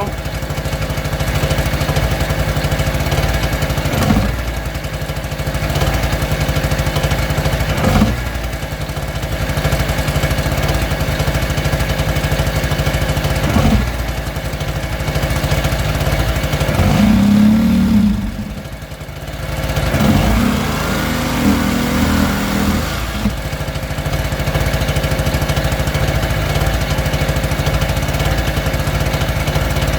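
A small two-stroke engine running steadily, with a few short knocks. Its note briefly rises, drops away and comes back about two-thirds of the way through.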